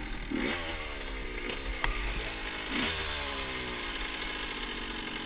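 Motorcycle engine revving up sharply about three times, its pitch falling away slowly after each blip of the throttle.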